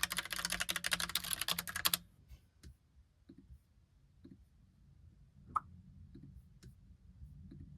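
Fast typing on a Logitech Pop Keys typewriter-style mechanical keyboard: a dense run of keystrokes that stops abruptly about two seconds in. After that come only a few scattered faint key clicks and one short, louder sound past the middle.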